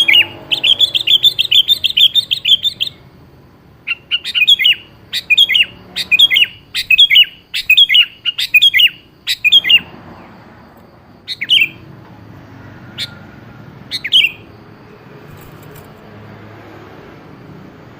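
Sooty-headed bulbul (kutilang) calling. A fast chattering run in the first three seconds is followed by a string of short, sharp calls about every half second from roughly 4 to 10 seconds, then a few scattered calls until about 14 seconds.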